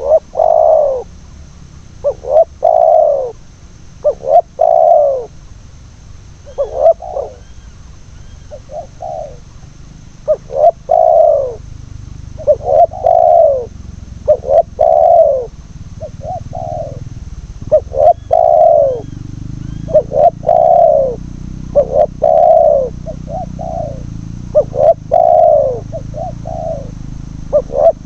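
Spotted doves cooing over and over, phrases every second or two, some loud and close and others fainter.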